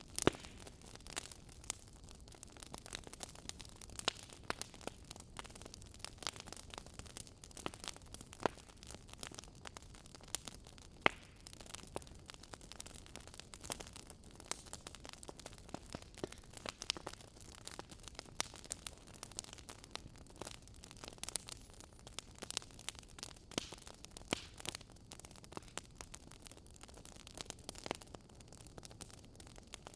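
Fireplace fire crackling: irregular sharp pops and snaps over a soft steady hiss, with a louder pop right at the start and another about eleven seconds in.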